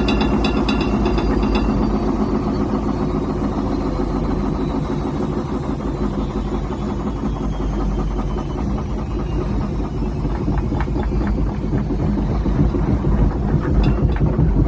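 Washing machine running: a steady hum with a fast, even knocking rhythm.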